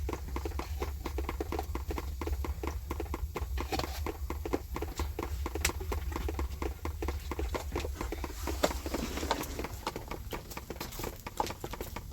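A quick, regular series of knocks or crunches, about four to five a second, over a steady low rumble.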